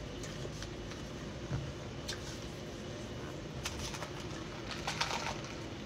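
Chewing and mouth sounds of someone eating fries: a few short wet smacks and clicks, a cluster of them about four to five seconds in, over a steady low room hum.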